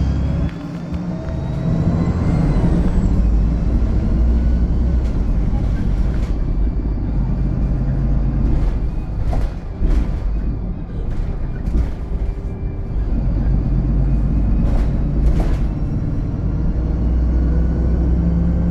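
VDL SB200 bus heard on board, its engine rumbling under way with a whine that rises over the first few seconds, and the body giving scattered knocks and rattles.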